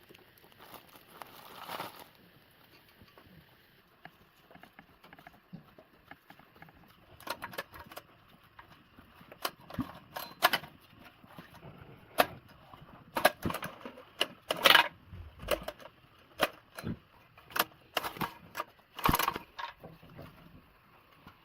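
Irregular sharp clicks and knocks of hard objects being handled: sparse at first, then coming thicker and louder through the second half.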